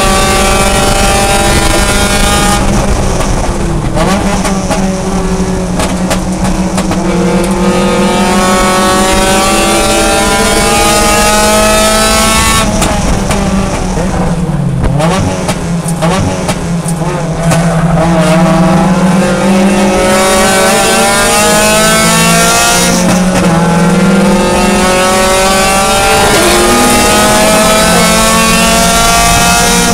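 Mazda Miata race car's four-cylinder engine at high revs inside the stripped cockpit, rising steadily in pitch under acceleration. Around the middle the revs fall away as the driver lifts off, then climb again.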